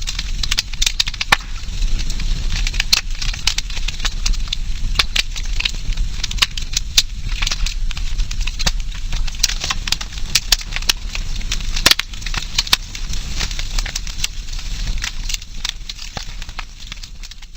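Wood campfire crackling, with frequent irregular sharp pops and snaps over a low steady rumble of burning. It fades out near the end.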